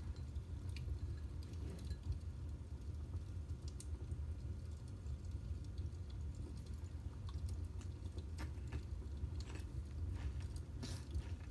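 Chips being handled and crunched while eating: scattered small crunches and clicks, over a steady low hum.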